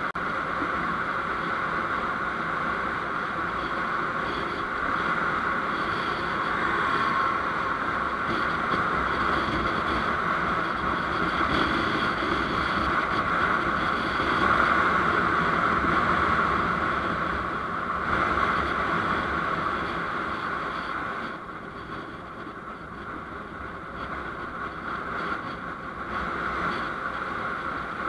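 Steady road and wind noise from a moving vehicle, with a constant hum; it becomes quieter about three quarters of the way through.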